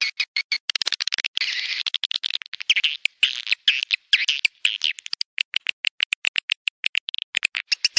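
Swiftlets calling: rapid trains of sharp clicks mixed with buzzy, twittering chirps, going on without a break.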